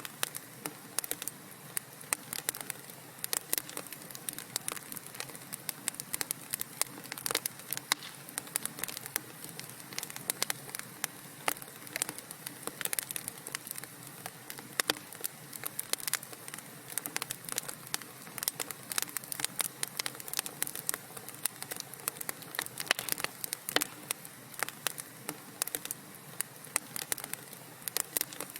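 Wood fire in a fireplace crackling and popping: many sharp, irregular snaps over a low steady hiss.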